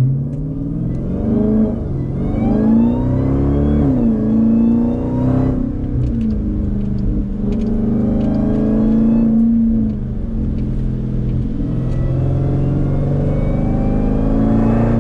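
Jeep Grand Cherokee Trackhawk's supercharged 6.2-litre V8, tuned to about 1000 hp, accelerating hard through the gears. The revs climb and fall back at each gear change several times, with the supercharger whine rising along with them.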